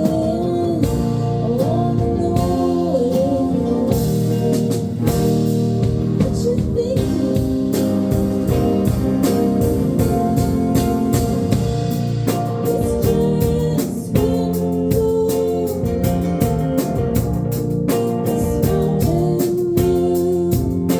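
Live band playing a song: a sung lead vocal with held, sliding notes over guitar and a drum kit keeping a steady beat.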